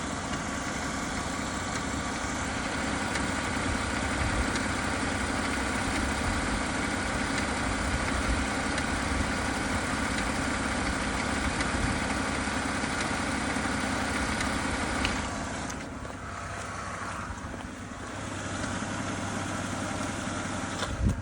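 BMW N52 straight-six engine running steadily with a clicking noise in its running. It gets quieter about three-quarters of the way through, and there is a single sharp knock near the end.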